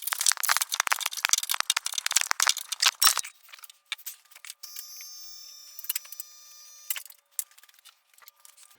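Socket ratchet wrench clicking rapidly as exhaust pipe bolts are run down and tightened, for about three seconds. This is followed by a faint steady whine and a few scattered clicks.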